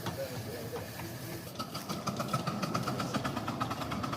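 Garden-scale model train running on its track, with a rapid, even ticking starting about a second and a half in.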